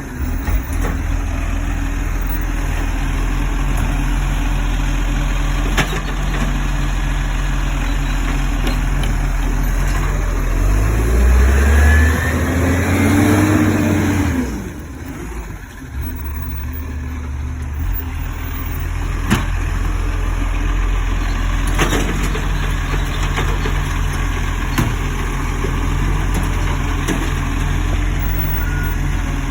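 Garbage truck engine idling steadily, revving up and back down about ten to fourteen seconds in, then settling back to idle, with a few sharp clicks.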